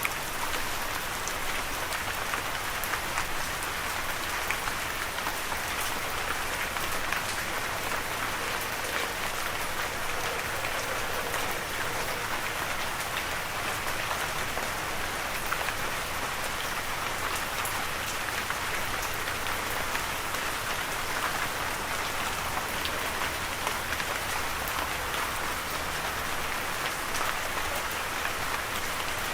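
Steady rain falling and pattering on a surface, a dense even hiss with many fine drop ticks.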